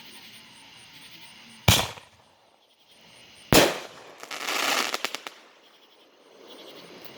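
Fireworks going off: two sharp bangs about two seconds apart, followed by about a second of rapid crackling pops.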